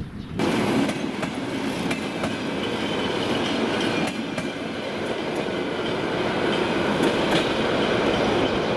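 Train running on rails: a steady rumble and rail noise with scattered wheel clicks, starting abruptly about half a second in.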